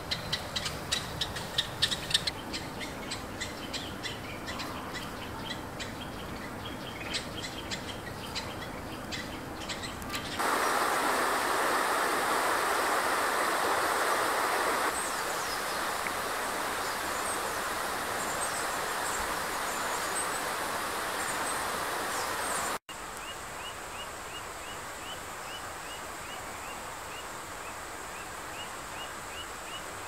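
Wild birds calling in separate stretches: a burst of sharp, clicking call notes in the first couple of seconds, thin high chirps over a steady rushing noise in the middle, and an even series of short high notes, about two a second, in the last several seconds.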